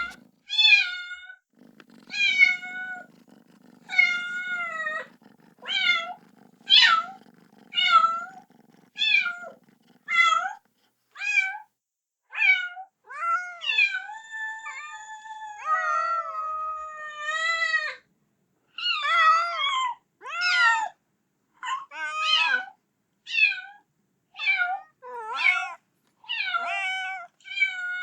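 Kitten meowing over and over, high-pitched cries about one a second, calling for its mother; a few calls are longer and drawn out. A faint low rumble sits under the meows and stops about ten seconds in.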